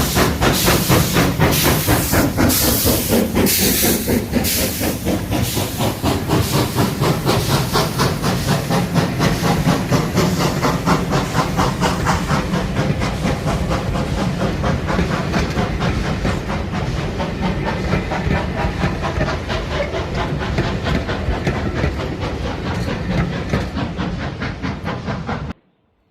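Steam locomotive working past with hissing steam and a fast, even beat, the hiss loudest in the first few seconds. The sound stops abruptly near the end.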